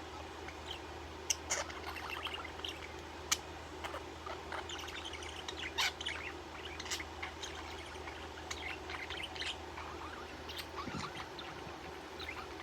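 Pet budgerigar chirping and chattering in many quick short calls, with a steady low hum underneath.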